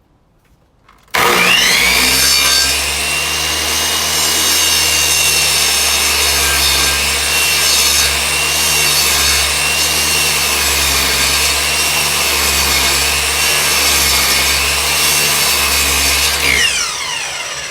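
Electric miter saw starting suddenly about a second in and running for about fifteen seconds as its blade cuts slowly into wood, its high whine wavering under the load. Near the end it spins down, the pitch falling.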